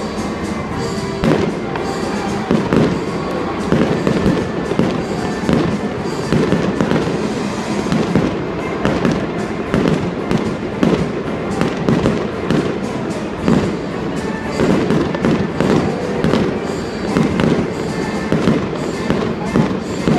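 Fireworks display: aerial shells bursting in rapid, irregular bangs and crackles, several a second, over music.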